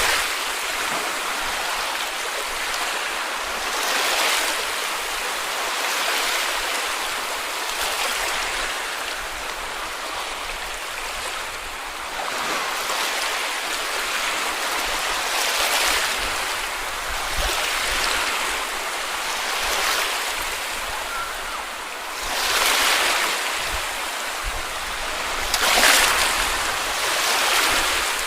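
Small sea waves breaking and washing on a beach, a steady rush with a swell every few seconds; the loudest wash about three-quarters of the way through.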